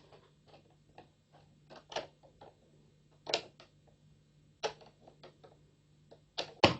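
Irregular light clicks and taps of a soldering iron tip pressed against a thin plastic soft-drink bottle as it burns lines into it, the plastic flexing and clicking under the tip, over a faint steady hum.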